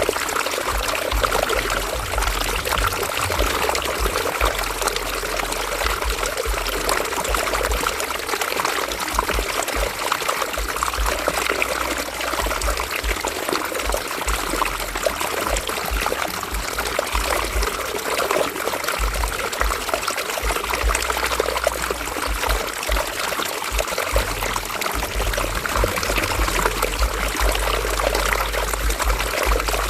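River water running and babbling over rocks in a steady, unbroken flow.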